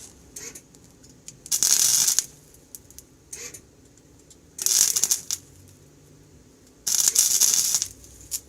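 Three short bursts of flux-core arc welding crackle from a small 90-amp wire-feed welder, each under a second long, as tack welds are laid on the cracked exhaust bellows section.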